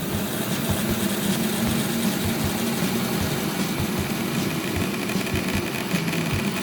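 Farm vehicle engine idling steadily.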